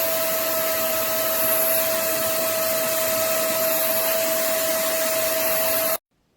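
Vacmaster SCA0801 carpet spot cleaner's suction motor running steadily with a whine. It cuts off suddenly about six seconds in, and a short burst follows near the end.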